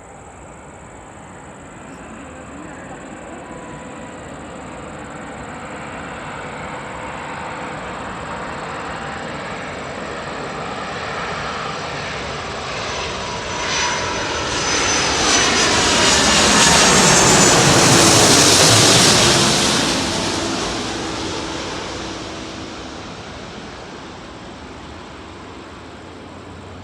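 Airbus A330 airliner's jet engines on landing approach as it passes overhead: the engine noise builds gradually, peaks with a whine about two thirds of the way through, then fades as the aircraft moves away.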